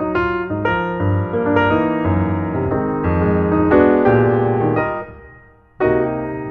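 Background piano music: struck chords and notes that die away about five seconds in, then resume with fresh notes about a second later.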